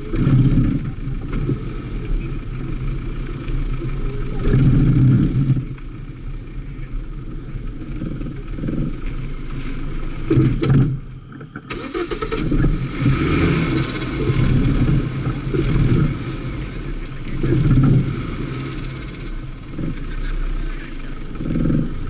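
Toyota Corolla engine heard from inside the car, revving up and dropping back again and again as it is driven hard around a tight cone course, with a brief lull about eleven seconds in.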